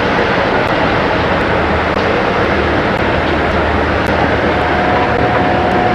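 Offshore powerboat running at speed: a loud, steady mix of engine noise and rushing wind and water, with a thin steady whine coming in about four and a half seconds in.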